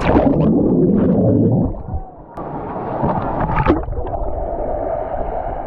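Muffled gurgling and bubbling of pool water heard underwater. The sound drops away about two seconds in and gives way to a steadier wash of water with a few small splashes.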